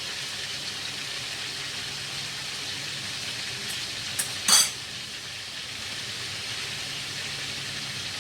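Duck pieces sizzling steadily in hot oil in a frying pan. A light click comes about four seconds in, and a short, louder knock just after it.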